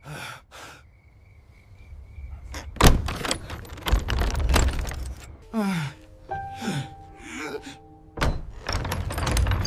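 Tense background music with a series of heavy thuds and bangs; the first loud thud comes about three seconds in, after a few seconds of a thin held tone.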